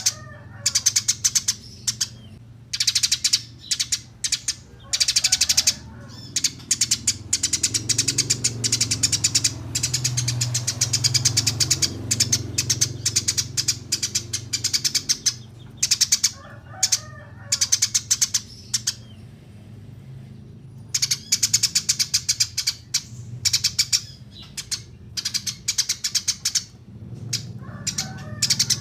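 Small songbird singing: rapid strings of very short, high chirps in repeated bursts of a second or several seconds with short breaks between, over a steady low hum.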